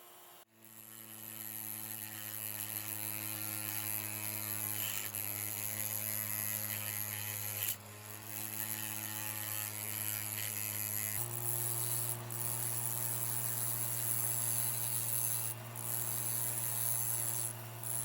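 Electric motor of a power tool running steadily with a humming whine and a hiss, starting about half a second in. It steps up slightly in pitch about two-thirds of the way through and cuts out briefly a few times.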